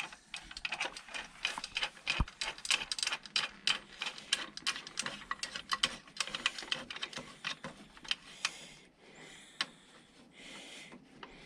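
Ratchet wrench clicking in quick runs as an exhaust mounting nut is run on, thinning out to a few scattered clicks near the end.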